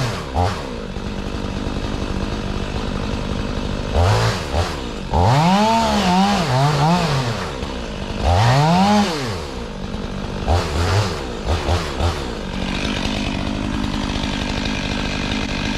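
Stihl 500i fuel-injected two-stroke chainsaw revved up and back down three times, with a low idle in between, then given a few quick throttle blips. Near the end it settles into a steadier, higher note.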